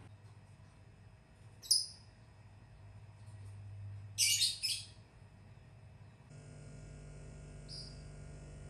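Small bird chirping: one short chirp about two seconds in, a quick run of chirps around four seconds, and another single chirp near the end, over a low steady hum.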